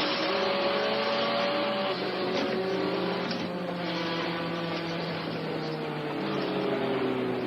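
Car and truck engines running at speed on a highway, with several engine notes slowly rising and falling over a steady low drone and road noise.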